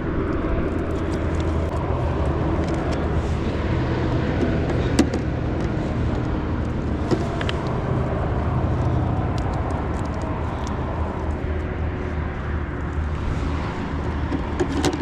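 Steady low motor drone, with a few brief sharp clicks.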